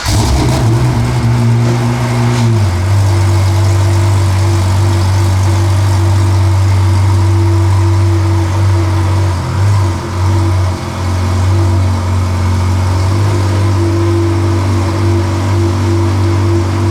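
Pagani Zonda F's 7.3-litre AMG V12 idling with a steady, deep exhaust note, its idle settling a little lower about two and a half seconds in.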